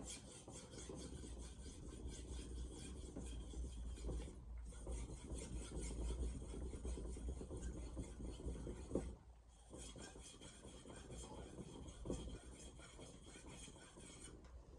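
VG10 stainless santoku blade being stroked rapidly back and forth on a Shapton Glass 2000-grit whetstone, a steady rasping scrape of steel on stone. The strokes pause briefly about four and a half seconds in and again for a moment around nine seconds, then carry on.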